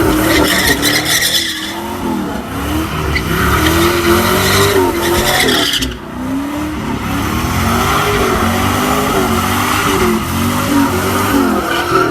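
Car engine revving up and down again and again while the tyres spin and squeal in a burnout, with a brief lull about halfway through.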